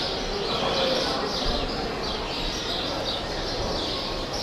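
Birds chirping repeatedly, short high falling calls a couple of times a second, over a steady background hubbub.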